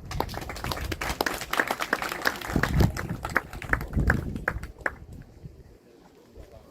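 Audience applauding, the claps thinning out and dying away about five seconds in.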